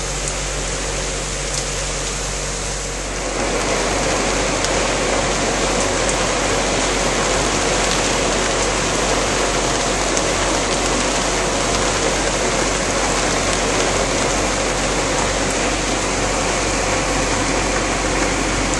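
Heavy tropical rain shower falling steadily, growing louder and fuller about three seconds in, with a steady low hum underneath.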